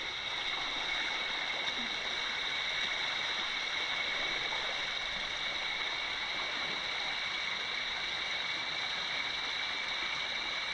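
Water of a small river rushing over rocks and little waterfalls: a steady, unbroken rushing hiss.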